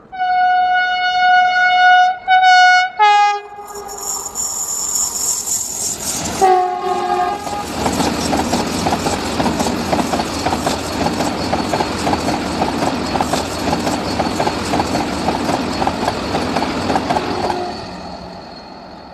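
Vande Bharat Express train sounding its horn, a long blast and then a few short ones, then a loud rushing whoosh as it passes and another short horn blast. This is followed by a long, rapid, rhythmic clatter of its wheels over the rail joints as the coaches go by.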